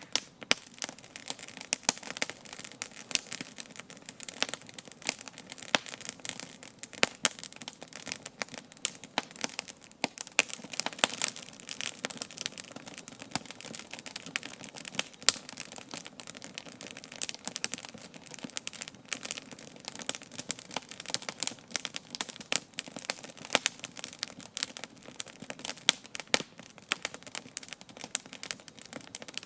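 Wood campfire crackling: a dense, irregular run of small pops and snaps, with louder snaps here and there.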